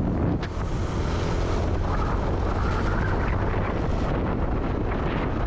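Wind buffeting the microphone on a moving motorbike, a loud steady rush, with the bike's engine running underneath.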